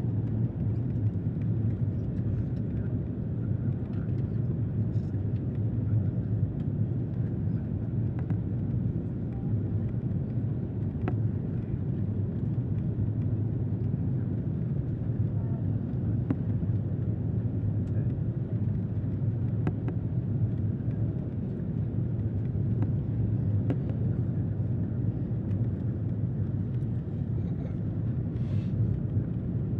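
Airliner cabin noise: a steady low rumble of engines and airflow heard from inside the cabin.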